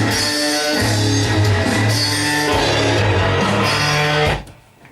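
Loud heavy rock music with distorted guitar, bass and drums, which cuts off suddenly just past four seconds. It is most likely the band's own freshly mixed track being played back.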